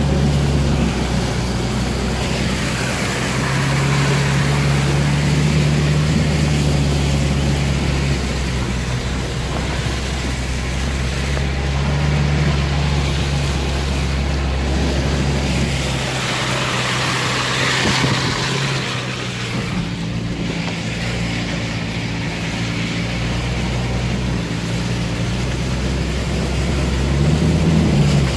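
Car engine running heard from inside the cabin as the vehicle drives through deep mud and meltwater puddles, its pitch shifting several times as the revs change. Water and mud splash against the body, with a longer rush of splashing about two-thirds of the way through.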